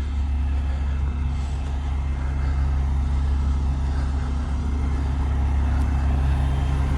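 Diesel truck engine, the Cummins X15 in a Peterbilt 389, idling steadily with a low, even drone.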